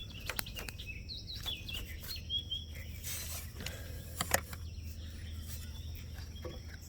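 Birds chirping in short calls over a low steady hum, with a few sharp clicks, the loudest about four seconds in.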